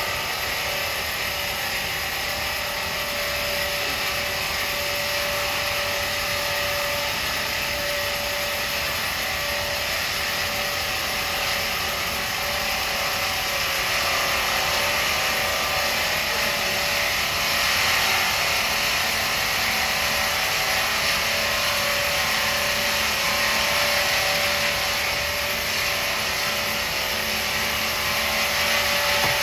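Sawmill machinery running steadily, an unbroken mechanical noise with a constant whine throughout.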